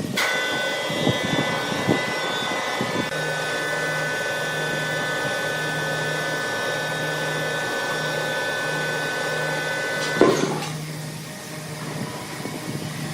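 A machine motor running with a steady whine, which stops after a sharp knock about ten seconds in.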